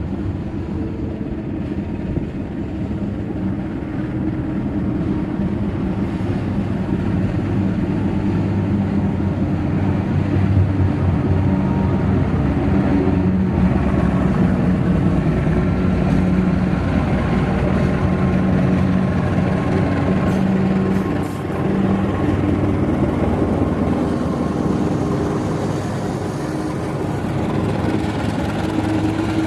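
Diesel locomotive engine running with a steady low drone, growing louder over the first ten seconds.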